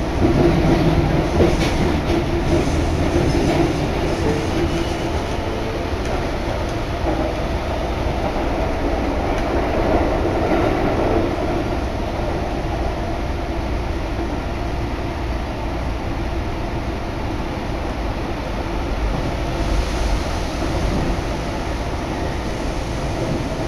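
Running noise inside a Keikyu Main Line commuter train between stations: a steady rumble of the wheels on the rails and the carriage in motion.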